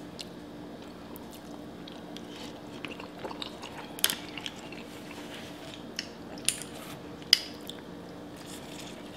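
Close-up eating sounds: chewing a mouthful of spaghetti, with a few short sharp clicks of a fork and spoon against the dish, over a faint steady hum.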